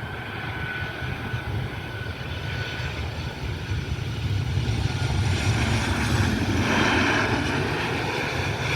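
Boeing 737-800's CFM56 turbofan engines as the airliner comes in to land: a steady jet rumble with a thin whine that fades out about three seconds in, growing louder toward a peak about seven seconds in, then easing slightly.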